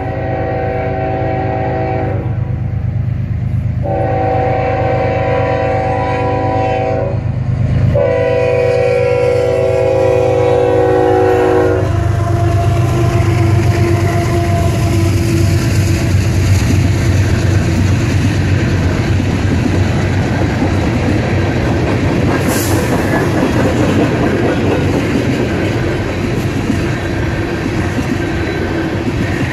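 CSX freight locomotive's air horn sounding three long blasts as a grade-crossing warning, the last cutting off about 12 seconds in. The locomotives and freight cars then roll past close by, with steady rolling noise and wheel clatter.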